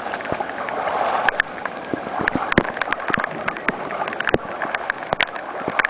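Heavy rain with water sloshing and splashing in deep floodwater on a street, and many sharp taps of drops landing close by.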